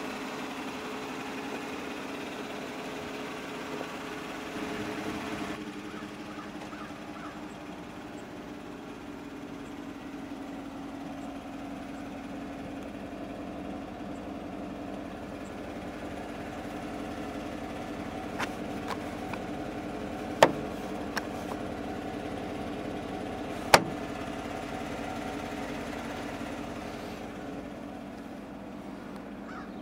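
Steady hum of an idling vehicle engine, with a few sharp clicks and knocks in the second half, two of them louder than the rest.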